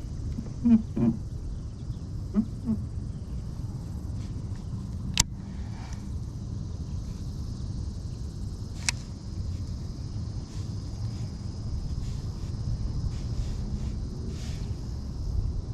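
Steady high insect drone over a low rumble of wind on the microphone. There are a few short low chirps in the first few seconds, and two sharp clicks, one about five seconds in and one about nine seconds in.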